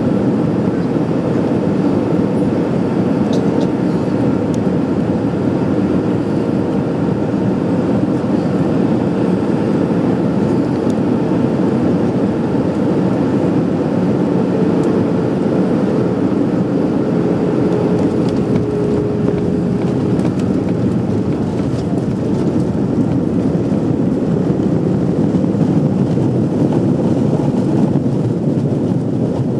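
Steady rumble of an Airbus A320's engines and airflow heard from inside the passenger cabin in flight, with no break or sudden change.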